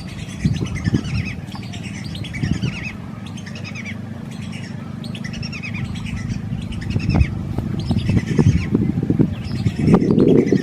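Several birds calling, with short series of quick falling chirps repeating every second or so. A steady low rumble with a few knocks lies beneath them and grows louder near the end.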